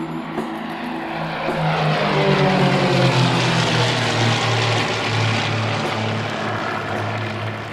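Propeller aircraft flying past, its engine-and-propeller tone sliding steadily down in pitch as it passes, loudest about three seconds in.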